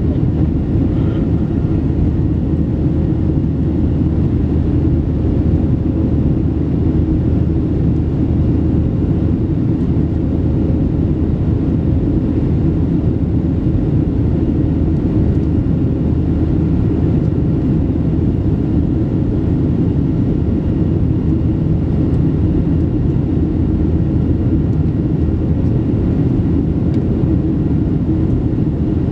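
Steady cabin noise inside a Boeing 737-700 in flight: a loud, even rumble from its CFM56-7B turbofan engines and the airflow over the fuselage, with a faint steady hum above it.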